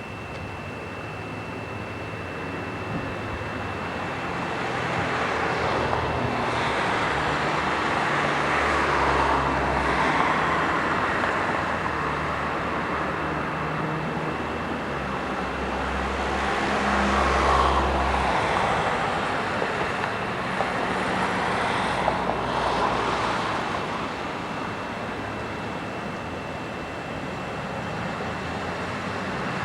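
Passing vehicles with a steady hiss that swells and fades three times, a low rumble under the middle part, and a thin steady high whine throughout.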